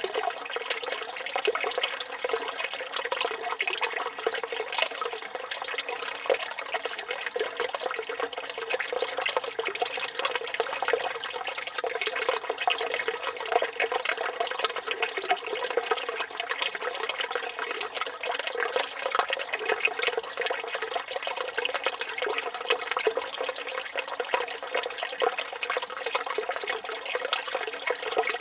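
Steady running water from a village fountain spout, splashing without a break.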